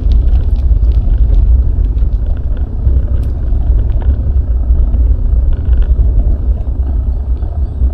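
Wind buffeting an action camera's microphone on a moving bicycle: a loud, gusting low rumble, with faint light ticks above it.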